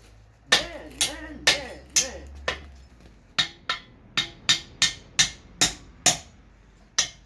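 Hammer blows on steel: about a dozen sharp strikes in uneven runs of two or three a second, with short pauses between the runs.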